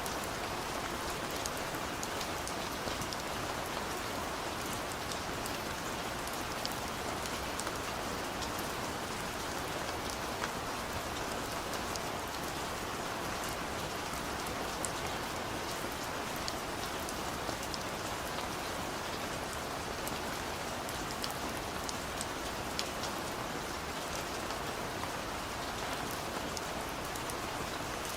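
Heavy rain pouring steadily: an even hiss with scattered ticks of individual drops.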